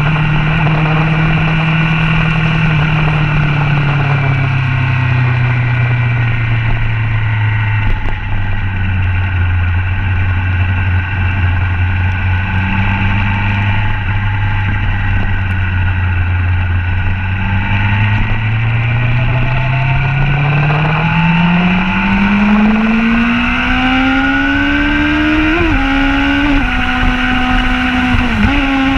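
Motorcycle engine heard from on board at speed. The revs fall over the first several seconds, hold low and steady, then climb steadily as the throttle opens, with two quick dips near the end as it shifts up a gear.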